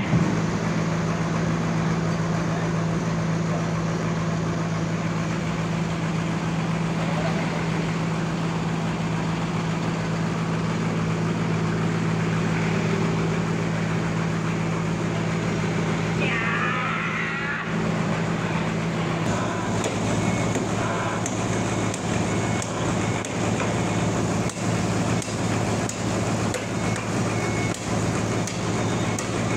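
Sawmill's engine running steadily with a constant hum. A little past halfway the pitch of the hum shifts, and after that it is broken by frequent short knocks and clatter.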